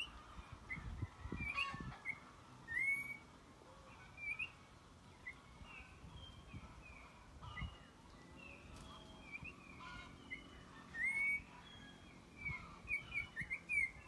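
Young toche, a kind of oriole, calling over and over with short whistled chirps, some rising and some falling in pitch, with a few low bumps on the microphone.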